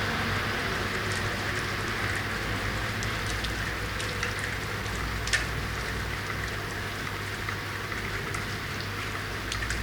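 Steady rain falling on hard urban surfaces, with scattered individual drops landing close by and one sharper drip about five seconds in. A steady low hum runs underneath.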